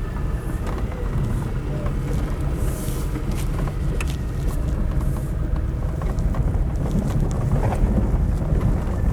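Car driving along, heard from inside the cabin: a steady low engine and road rumble with scattered small clicks and knocks.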